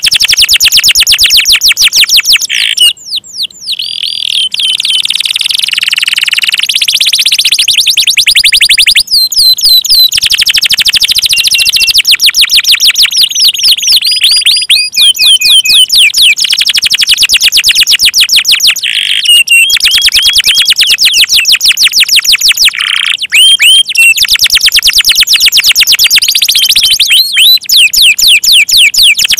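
Canary singing loudly in long, very fast trills and high chirps with hardly a break, pausing briefly about three seconds in.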